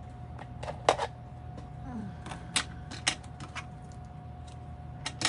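Irregular light clicks and taps of card-making materials being handled on a work table, a few louder knocks among them. A faint steady hum runs underneath.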